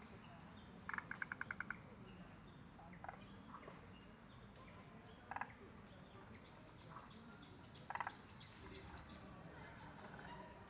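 Wild birds calling in woodland. About a second in there is a quick rattle of about eight notes, then single short calls come around five and eight seconds in. In the second half a series of about nine high, evenly spaced notes runs.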